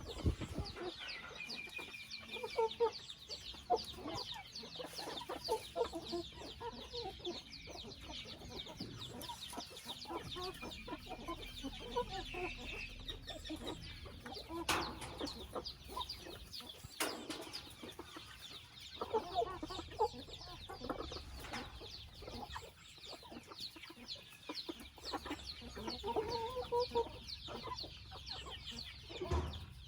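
Chickens clucking without pause, with a dense stream of short, high calls above the lower clucks.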